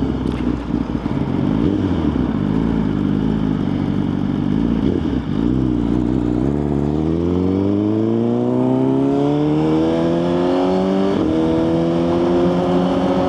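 Suzuki GSX-R1000 inline-four engine running steadily, then from about halfway through accelerating, its pitch rising smoothly for several seconds with a brief break near the end.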